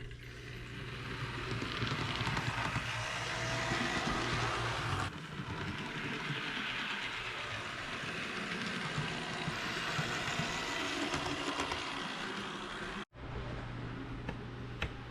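HO-scale Bachmann GP40 model locomotive running along the track: a steady motor whir with wheels rolling on the rails, over a steady low hum. The sound drops out for a moment about thirteen seconds in.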